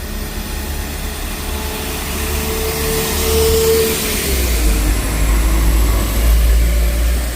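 A train running close by: a steady low rumble that grows louder about halfway through, with a clear whine held for a second or so around the middle that dips slightly in pitch as it fades.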